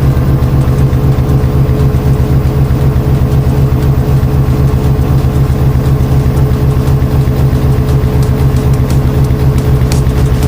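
Washing machine running with a loud, steady low hum and a fast, even throb.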